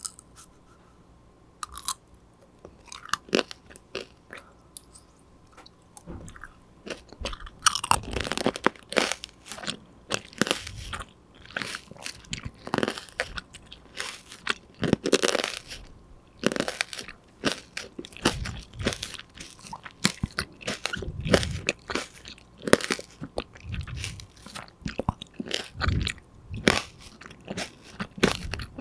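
Close-miked eating of a crunchy snack: a few small mouth clicks at first, then continual crunching bites and chewing from about seven seconds in.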